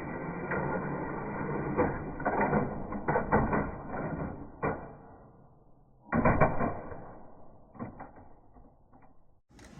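HO slot cars clattering and knocking on the plastic track, a dense rattle that fades out about halfway through, then a second burst of knocks that dies away, with a muffled sound lacking high tones.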